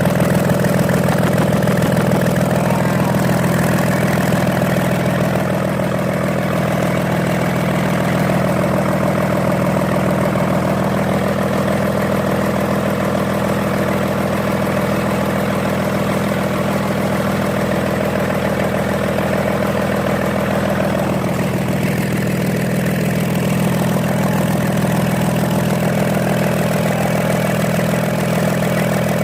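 Komatsu SA6D125-series six-cylinder diesel engine running steadily at idle on a ground test, out of the bulldozer.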